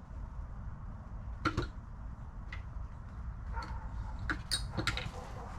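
A few sharp, irregular metallic clicks and clinks of hand tools, a wrench and sockets being handled and fitted, over a low steady background rumble.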